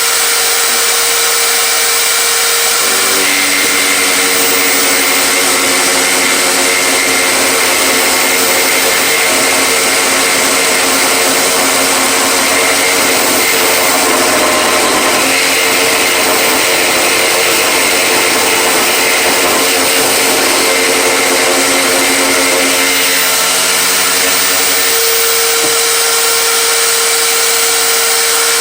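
An electric power tool motor running steadily. An extra, deeper motor note joins about three seconds in and drops away near the end.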